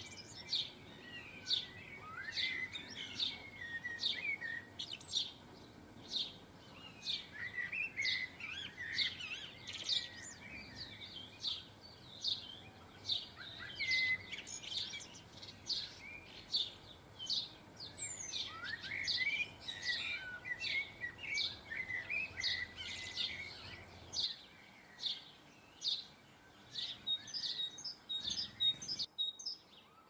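Small garden birds chirping and twittering: many short, high chirps repeating about once or twice a second, mixed with lower warbling phrases.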